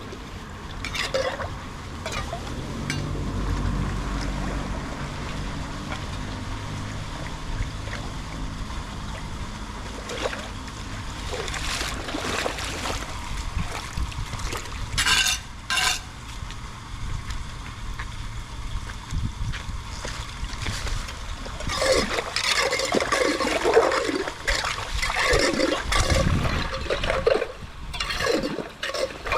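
Water running and splashing at a culvert, with a low rumble in the first several seconds. It grows busier and louder in the last several seconds.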